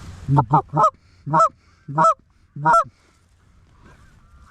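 Loud goose honks, six in all: three quick ones in the first second, then one roughly every half second to the three-second mark, followed by faint, distant honking.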